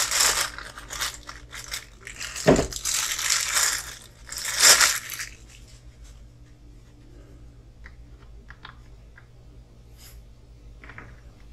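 Small plastic parts bag rustling and crinkling while being dug through for a 3x6 mm screw, loud for about the first five seconds, then a few light clicks of small parts.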